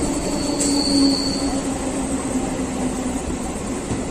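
Katwa–Howrah EMU local train running along the track, with a steady low hum and continuous rumble. A brief high-pitched wheel squeal comes from about half a second to a second and a half in.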